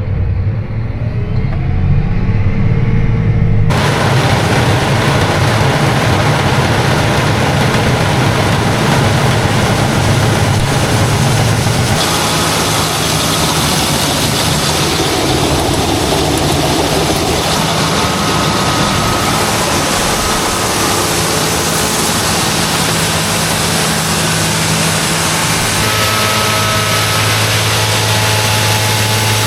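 Heavy farm machinery engines running steadily with a strong low hum. The sound changes abruptly about 4, 12 and 26 seconds in.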